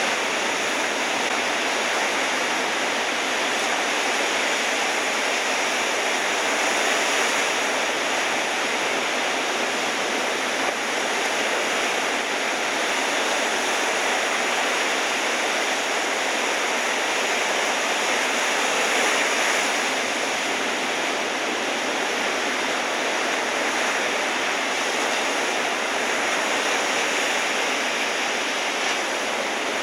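Ocean surf from typhoon swell, a steady, even rushing roar of breaking waves with no single wave standing out.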